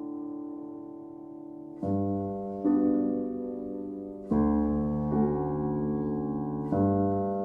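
Slow, soft solo piano music: sustained chords struck every second or two, each left to ring and fade.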